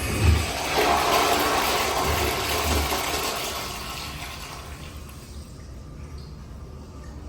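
A restroom fixture flushing: a loud rush of water that tapers off after about four seconds.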